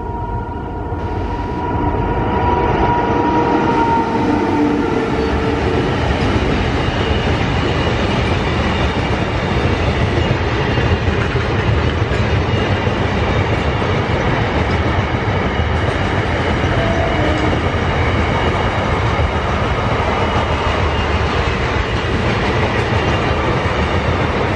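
Double-stack container train hauled by a WAG-9 electric locomotive passing close by. The noise swells over the first few seconds as the locomotive goes past, with a thin steady whine that fades out about four seconds in. Then the loaded container wagons' steel wheels keep rolling by on the rails with a steady, loud rumble.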